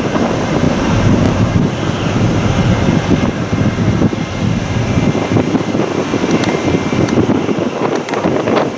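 Loud, gusty wind buffeting the microphone, with a faint steady whine in the second half.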